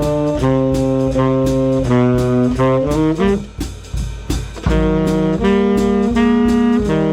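Swing band rehearsing: saxophones and brass play held chords that move step by step over a steady drum beat. About three seconds in, the horns drop out for roughly a second while the drums keep time, then come back in.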